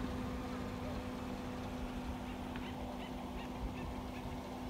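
A low rumble with a steady hum underneath. About halfway through, a bird gives a quick run of about six short calls.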